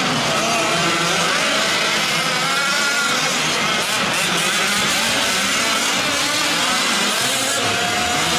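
Several 1/5-scale gas RC trucks' small two-stroke engines racing together, their pitches rising and falling as they rev and back off around the track.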